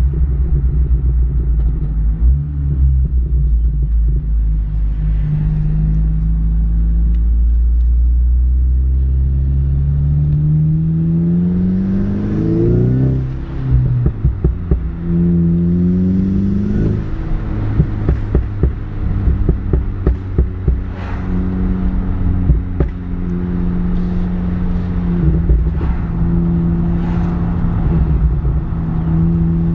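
Volkswagen Mk6 GTI's turbocharged four-cylinder engine with a K04 turbo, revving up sharply twice about halfway through. A rapid run of sharp exhaust pops and crackles follows as the revs drop, and the engine then settles to a steady drone.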